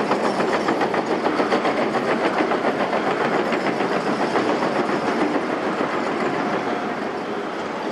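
Rhythmic mechanical clattering over a steady running noise, about five beats a second, easing off in the last couple of seconds.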